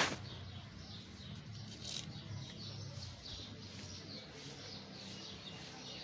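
Small birds chirping over and over, several short high chirps a second, over a low steady hum. A sharp click comes right at the start.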